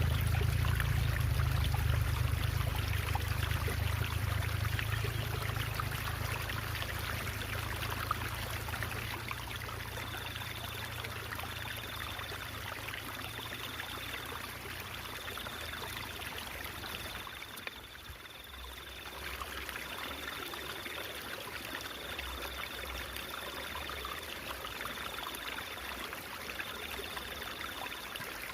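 Stream water trickling and babbling steadily, with a low rumble in the first part that fades. From about ten seconds in, a faint high tone repeats in roughly one-second pulses.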